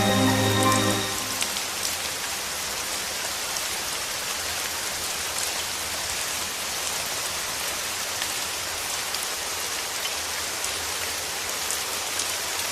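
Steady rain falling: an even hiss of rain with scattered sharper drop ticks. Background music fades out about a second in, leaving only the rain.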